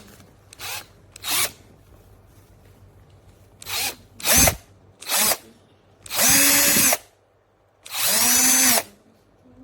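DEKOPRO 20V cordless drill's motor run in trigger pulls: five short blips, then two runs of about a second each that spin up to speed and hold a steady whine.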